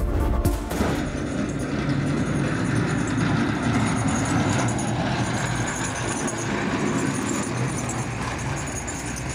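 Steady road-vehicle noise: engines running and traffic passing.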